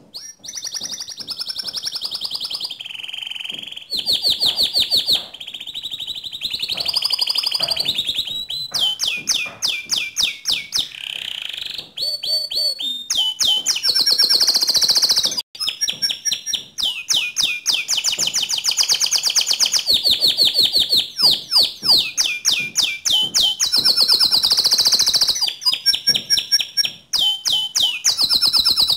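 Domestic canary singing a long, loud song of fast trills and rolls: rapid runs of repeated high sweeping notes, in phrases that change every second or two.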